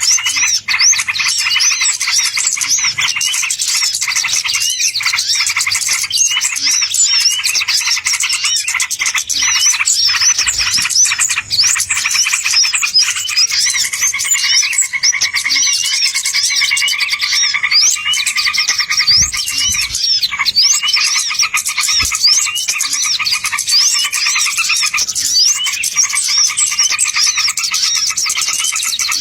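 Dense chorus of many small songbirds chirping rapidly and over one another, as played to lure wild birds. A steadier, lower trilling band joins about halfway through.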